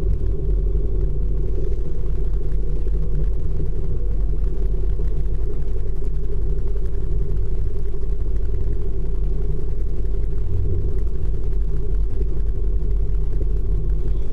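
Steady low rumble of an ICE high-speed train running, heard from inside the carriage.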